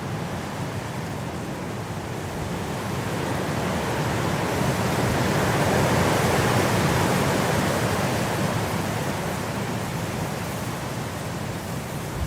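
Blizzard wind blowing, a gust swelling to its loudest about halfway through and then easing.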